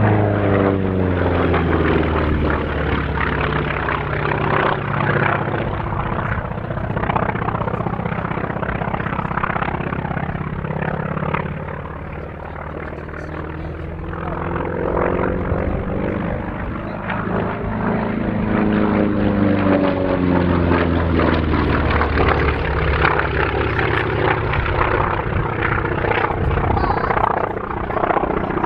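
Grumman FM-2 Wildcat's radial engine and propeller during a flying display: the engine's pitch drops as the aircraft passes, the sound eases about twelve seconds in, then swells back with the pitch rising and falling again on a second pass.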